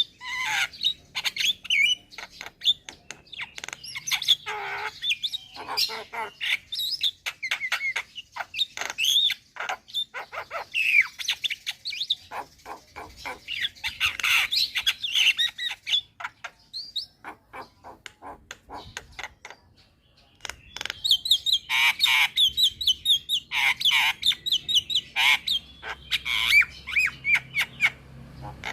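Javan myna singing vigorously: a fast stream of clicks, harsh chatter and short whistled notes. It falls silent for about four seconds past the middle, then starts again.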